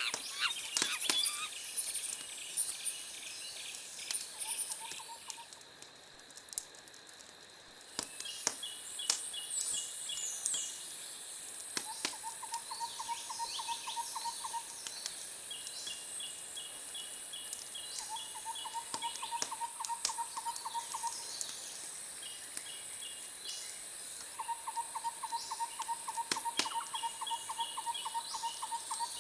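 Outdoor nature ambience: short rhythmic trilling calls repeating every few seconds over a steady high insect-like hiss, with a few bird chirps and occasional sharp clicks.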